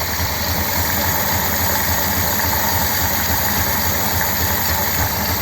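1957 Ford Thunderbird V8 idling steadily with an even low pulse, running cold without the choke.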